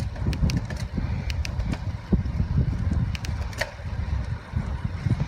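Wind rumbling and buffeting on the microphone of a camera riding along on a moving road bicycle, with scattered sharp clicks and rattles.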